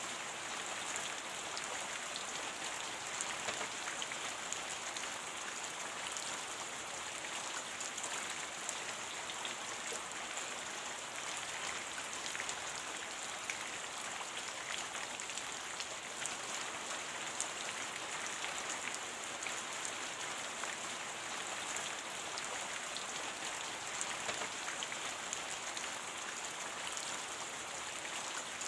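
Steady rain: an even hiss dotted with many small, sharp drop ticks, unchanging throughout.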